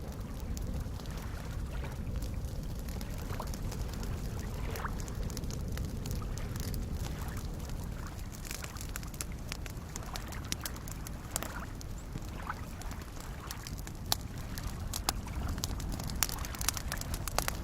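Campfire crackling, with irregular sharp pops, over a steady low wash of soft lake waves.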